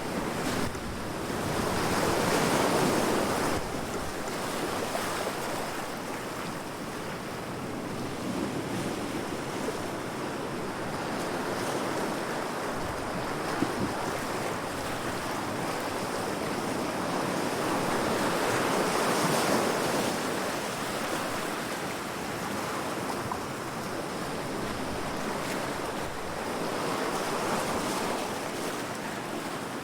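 Heavy ocean waves breaking against rocks: a continuous wash of surf that swells into louder crashes three times, near the start, past the middle and near the end.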